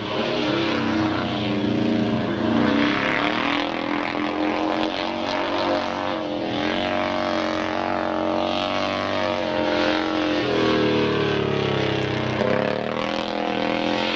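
Single-cylinder 500 cc methanol speedway motorcycle engine running hard, its revs rising and falling as the bike is ridden around the oval and slid through the turns.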